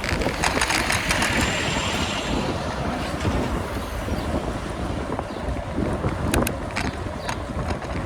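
Wind buffeting the microphone of a camera on a moving bicycle, a steady low rumble with scattered clicks and rattles.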